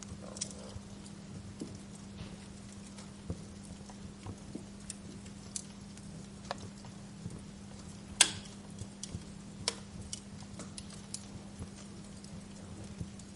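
Wood fire crackling: irregular small pops and snaps over a steady low hum, with one sharp, louder pop a little past halfway.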